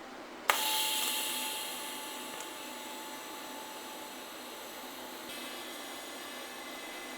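Shielding-gas cylinder valve opened with a sharp click about half a second in, then gas hissing steadily through the welder's regulator with a faint whistle, the rush easing after a second or two into a steady hiss.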